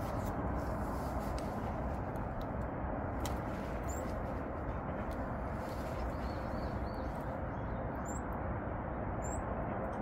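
A few short, high bird chirps: one about four seconds in, a quick run of four soft notes around six to seven seconds, and two more near the end. Behind them is a steady hiss with a low rumble.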